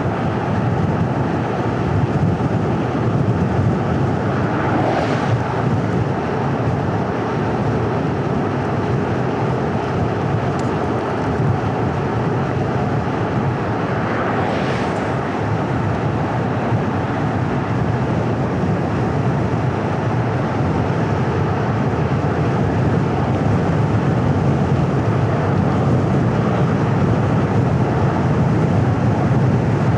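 Car driving along a paved road: steady tyre and engine noise, with two brief louder hisses about five seconds in and again around fifteen seconds.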